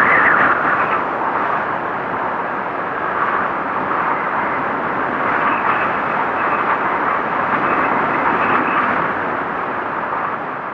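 Strong blizzard wind blowing steadily, swelling and easing in gusts, with a faint high whistle in the middle.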